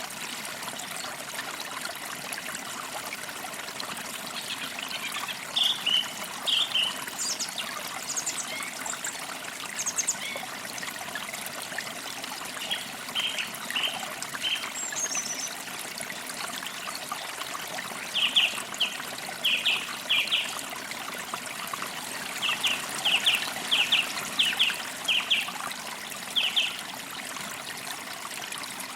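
A forest creek trickling and burbling steadily, with birds chirping in short clusters of quick high notes over it, the busiest near the end.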